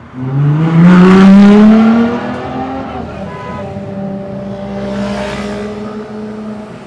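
Ferrari LaFerrari's naturally aspirated V12 accelerating hard: the engine note climbs steeply and loudly for about two seconds, then drops away and carries on as a steadier, quieter note that swells once more later on.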